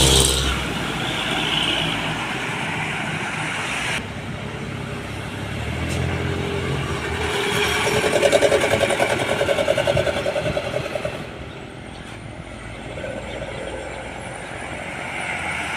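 Heavy trucks passing on a road, their diesel engines and tyres running. The loudest pass comes about eight to eleven seconds in, with a pulsing engine beat, and the sound changes abruptly twice along the way.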